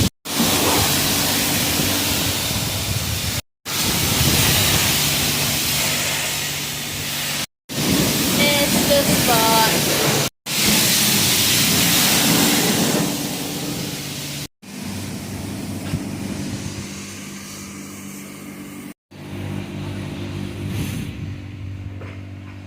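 High-pressure wash wand at a self-serve car wash spraying water over a pickup truck: a steady hissing spray over a low pump hum, cutting off abruptly several times.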